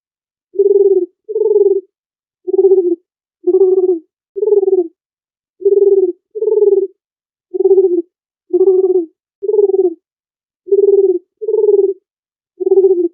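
Dove cooing: a steady series of short, low coos, each about half a second long, in groups of two and three with brief pauses between the groups.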